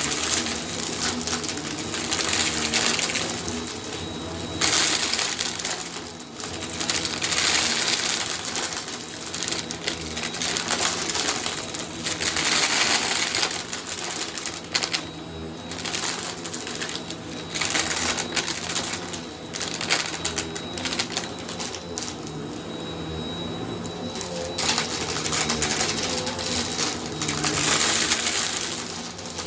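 Bissell vacuum cleaner running over a shag rug: a steady motor hum under a hissing, crackling rush of suction that swells and fades every few seconds as the vacuum is pushed and pulled.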